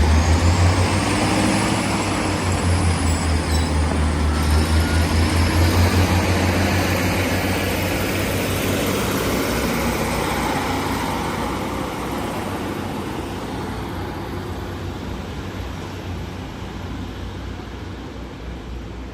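Class 156 Sprinter diesel multiple unit pulling out. Its underfloor diesel engine throbs loudly with a high whine rising in pitch over the first few seconds, then the sound fades steadily as the train draws away.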